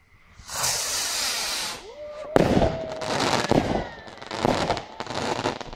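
Aerial fireworks: a loud hiss lasting over a second, then a sharp bang a little past two seconds in, followed by several crackling bursts.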